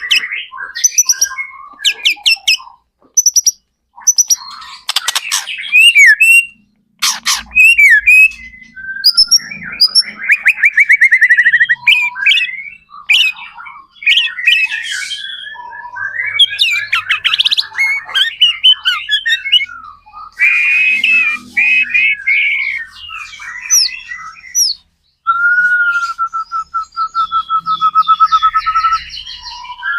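White-rumped shama (murai batu) singing at full voice: a loud, varied run of sharp calls, whistled glides and fast chattering phrases, with a long, even, rapid trill on one note near the end.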